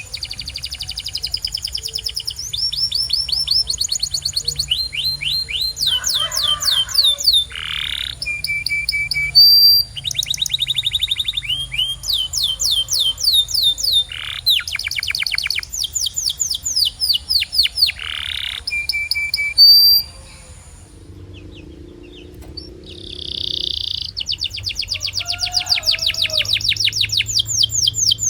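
Domestic canary singing: a long song of rapid trills, each a fast run of repeated high notes, with sweeping notes between them. The song breaks off for about three seconds about two-thirds of the way through, then the trills resume.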